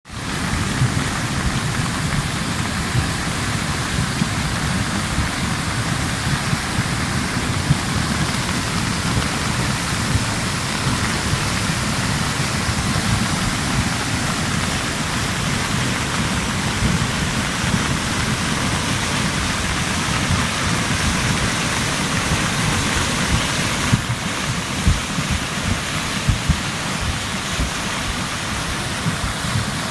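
A river swollen by heavy rain: a steady rush of fast water with a low, churning rumble underneath.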